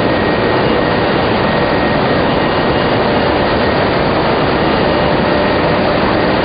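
Tobacco lamina flash dryer and surrounding plant machinery running with a steady, loud noise, with a faint high steady whine on top.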